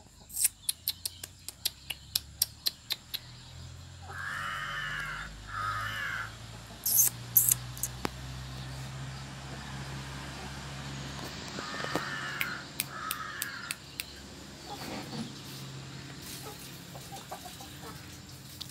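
A bird calling in two pairs of short calls, one pair about four seconds in and another about twelve seconds in. A quick run of about a dozen sharp clicks fills the first three seconds, and two brief high-pitched squeaks come about seven seconds in.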